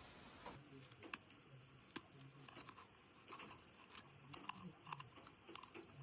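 Faint, irregular light ticks and taps, a few each second, over a quiet background.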